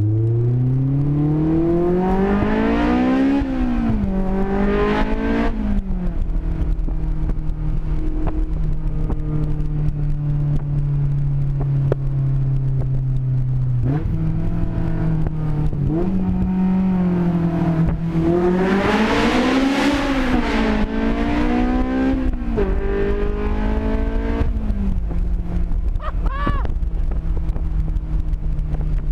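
Honda S2000's four-cylinder engine, extremely loud through an open header, pulling hard: revs climb twice in quick succession with drops at the up-shifts, hold steady for a stretch, then climb high again about two-thirds through before falling back to a steady cruise. Heard from onboard the car.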